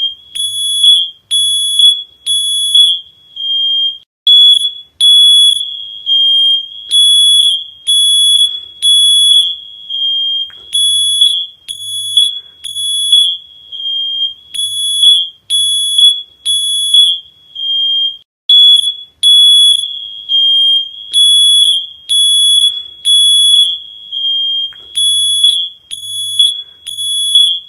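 Shrill electronic alarm beeping about once a second in runs of several beeps, with short gaps between the runs.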